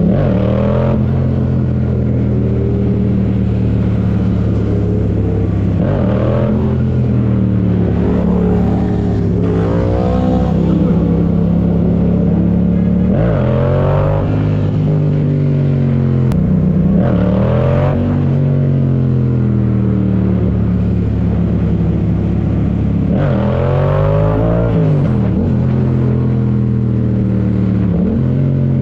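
Motorcycle engine running continuously, its revs rising and falling again and again, every few seconds.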